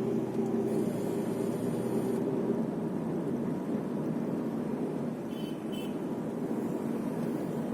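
Car driving, heard from inside the cabin: steady engine and tyre noise, with two short high sounds about five and a half seconds in.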